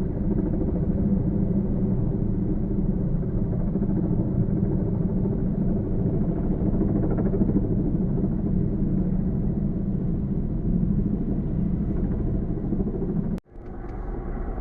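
Firefighting helicopter's rotor and engine running as a steady, loud, low rumble, likely mixed with strong wind on the microphone. The sound cuts out abruptly about 13 seconds in and comes back a little quieter.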